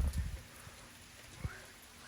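Steady light rain falling, a faint even hiss, with a few low knocks as the phone is handled at the start and one more knock about one and a half seconds in.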